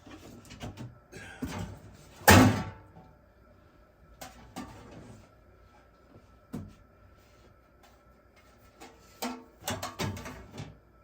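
Knocks and clatter of things being handled and set down, with one loud bang about two seconds in and another run of knocks near the end.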